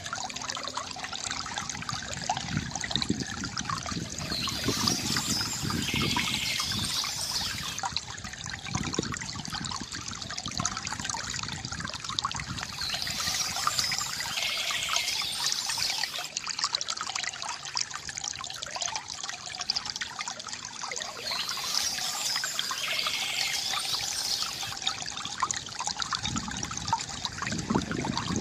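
Water trickling and gurgling steadily from a bamboo fountain, with bird chirps coming back about every eight to nine seconds.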